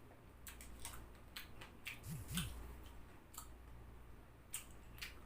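Crisp crunching of fried chicken being chewed close to the microphone: a string of sharp, separate crackles and clicks, with a brief low hum about two seconds in.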